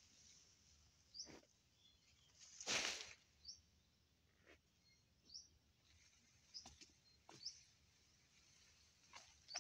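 Faint, short high bird chirps, repeated every second or so, over quiet outdoor background, with a few soft snaps and one louder half-second rustle about three seconds in, from grass being handled as cattle fodder is gathered.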